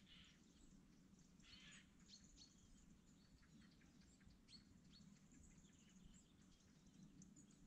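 Near silence with faint, scattered bird chirps: short, high, falling notes here and there over a steady low background hum.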